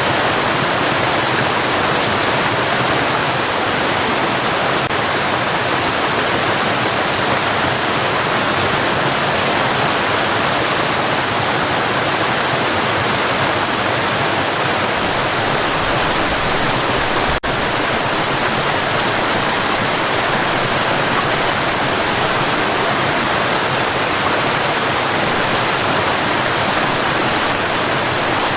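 Steady white noise, an even hiss like rushing water with no pitch or rhythm. It has a momentary dip about seventeen seconds in.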